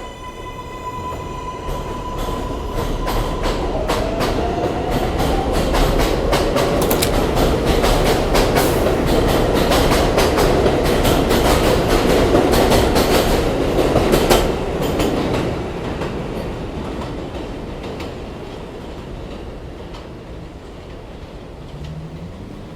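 New York City subway train pulling out of the station: its motors whine, then the wheels clack rapidly over the rail joints as the cars pass, loudest about two thirds of the way through, then the sound fades as the train leaves.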